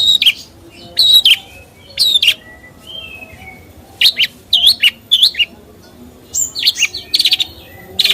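A songbird singing loud, short chirping phrases of quick falling notes, repeated about once a second with a couple of brief pauses.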